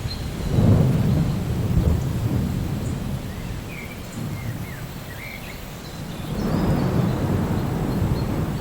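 Thunder rumbling over steady rain: one rolling rumble swells about half a second in and dies away over a few seconds, and a second begins about six seconds in.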